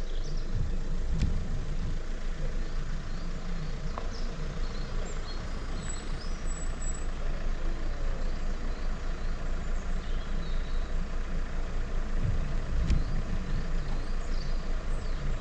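Off-road 4x4's engine running steadily at low speed, a low rumble, with two louder low swells about a second in and about two seconds before the end.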